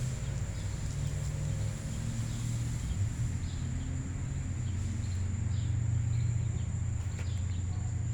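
Summer backyard ambience: a steady low hum and a steady high-pitched insect drone, with a few faint bird chirps.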